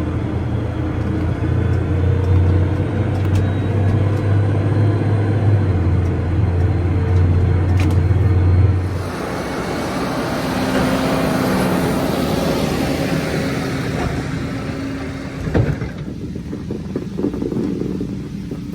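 An engine running steadily with a strong low rumble. About nine seconds in, the sound changes abruptly to a broader, noisier running sound, with a couple of knocks near the end.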